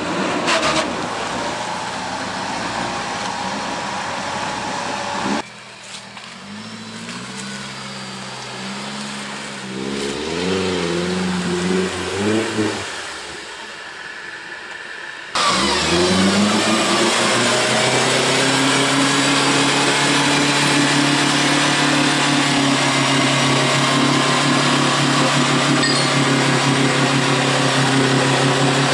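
Off-road 4x4 engines in a muddy trench. One revs up and down in short bursts, then a closer engine rises and holds at steady, raised revs.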